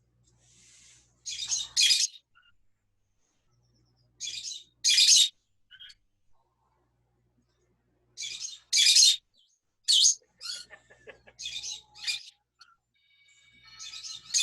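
Pet parrots squawking: loud, short, harsh calls, mostly in quick pairs, repeated about every three to four seconds, with a cluster of calls near the end.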